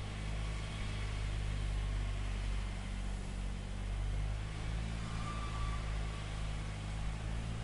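A large engine running steadily at a constant speed, a low even hum with no revving.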